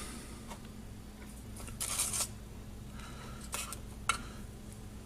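Light handling sounds of a baking soda and aluminum foil setup in a glass bowl: a short rustling hiss about two seconds in and a few small clicks later, over a steady low hum.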